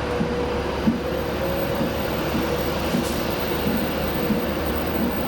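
Avanti West Coast Class 390 Pendolino electric train pulling away, with a steady whine from its traction equipment over a constant rumble.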